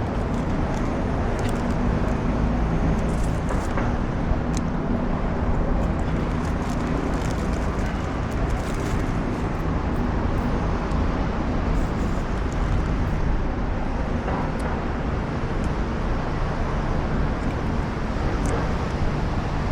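Steady road-traffic noise, a constant low rumble with a faint engine hum in the first half and a few light ticks.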